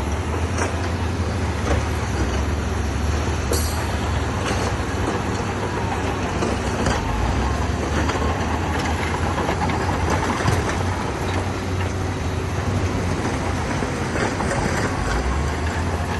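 Heavy earthmoving machinery working: an engine running steadily, with scattered clanks and knocks.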